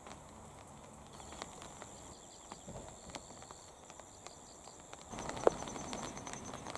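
Faint outdoor ambience with insects chirping steadily in high pulsed trills. Scattered light ticks run through it, with one sharp click about five and a half seconds in.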